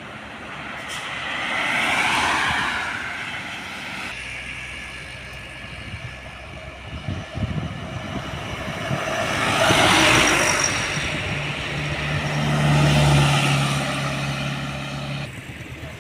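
Trucks driving past on a road one after another, each pass swelling up and fading away, with a low engine hum on the loudest pass near the end.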